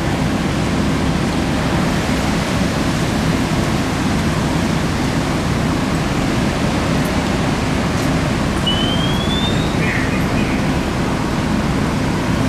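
A vehicle engine runs with a steady, noisy rumble, and a short rising chirp sounds about nine seconds in.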